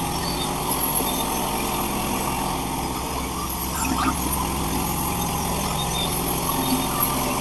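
Engine of a Hudson Patriot portable band sawmill running steadily.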